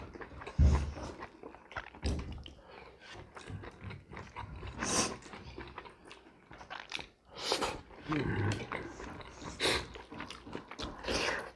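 Close-up chewing and mouth smacks of people eating rice and fish curry by hand, in short irregular bursts with several sharp wet smacks.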